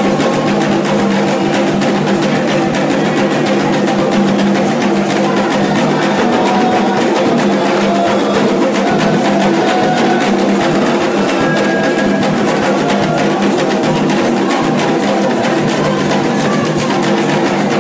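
Candomblé ritual drumming on atabaque hand drums in a dense, continuous rhythm, with steady held tones over it.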